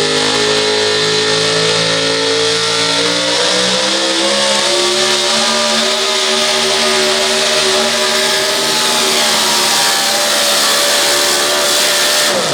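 Four-wheel-drive pulling truck's engine at full throttle hauling the sled down the track, one long loud run whose pitch slowly climbs, with a heavy hiss over it. It cuts off suddenly at the very end.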